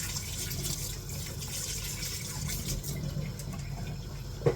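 Kitchen tap running water into a pan as it is rinsed, stopping about three seconds in. A single knock near the end.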